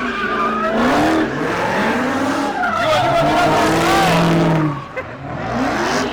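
Car engine revved hard, its pitch rising and falling again and again, with tires squealing as the car spins in a street stunt. The revs drop briefly about five seconds in, then climb again.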